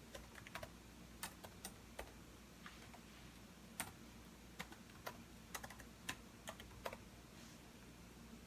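Typing on a computer keyboard: irregular, uneven keystrokes clicking in quick clusters, stopping about seven seconds in.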